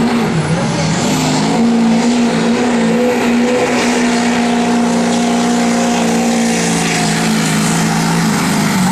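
Work-stock diesel truck engine running hard under load on a pull. The engine note wavers at first, holds steady for several seconds, then drops lower near the end.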